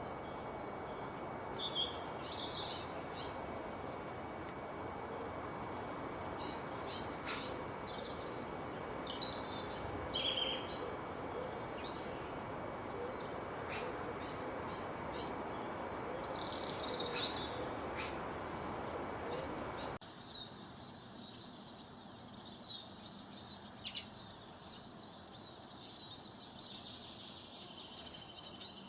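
Wild birds calling in short, repeated bursts of high chirps over a steady background hiss. About two-thirds of the way in, the hiss drops away abruptly and a fainter, continuous high twittering carries on.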